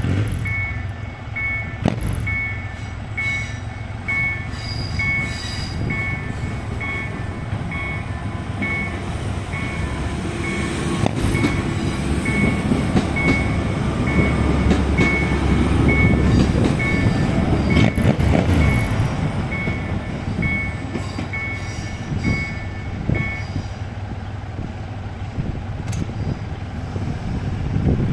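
A train running past with a steady low rumble that grows louder midway, while an electronic warning signal beeps about twice a second and then stops near the end.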